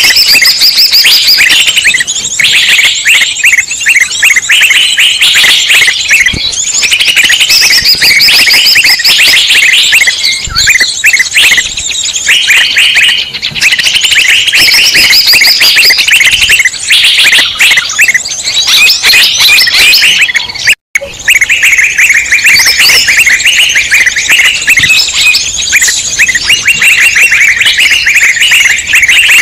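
A loud, dense chorus of many small songbirds chattering, chirping and trilling all at once: a noisy mixed-bird lure recording. The sound cuts out for a split second about 21 seconds in, then carries on.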